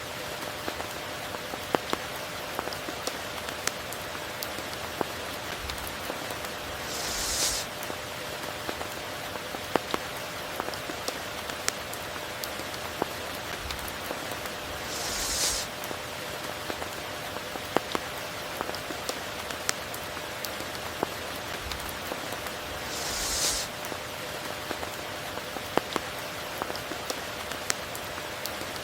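Steady rain falling, with many sharp drop ticks. A brief hissing swell rises and falls about every eight seconds, three times.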